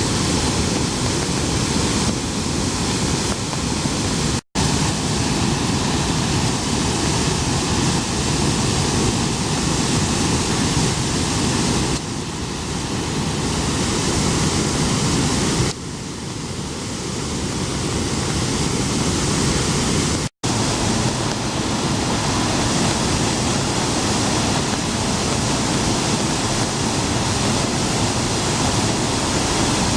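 Heavy rush of water released from Hōnen-ike dam, pouring down in a loud, steady roar of noise. The sound cuts out completely for an instant twice, about four seconds in and about twenty seconds in.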